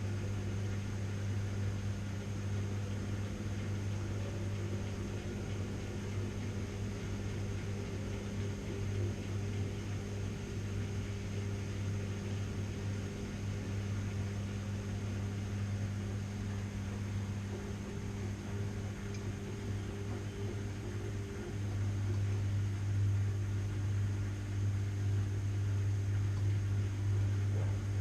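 Washing machine running steadily, a low motor hum under an even whirr, getting a little louder a bit past two-thirds of the way through.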